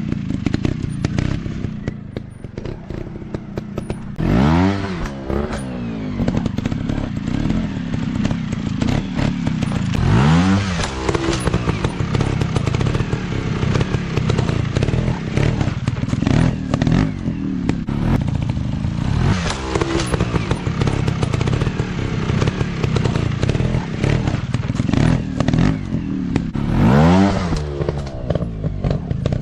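Off-road dirt bike engine running hard, revving up and falling back about four times over uneven ground, with clattering and knocks mixed in.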